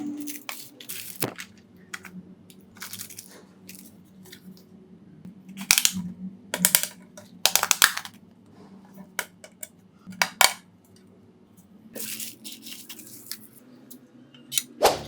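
Small tools and phone parts being handled during a phone repair: irregular clicks, taps and short scrapes, with quiet gaps between them.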